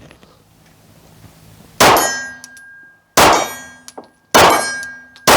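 Four shots from a Shadow Systems MR920 9mm pistol, about a second apart, each followed by the ringing clang of a steel target being hit.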